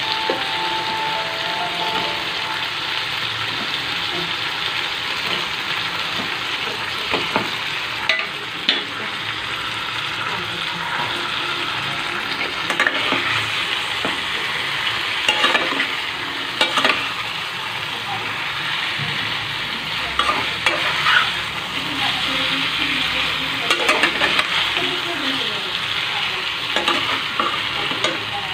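Tandoori chicken pieces and potatoes sizzling steadily in hot masala in a metal pot, while a metal spatula stirs them, with scattered clicks and scrapes of the spatula against the pot.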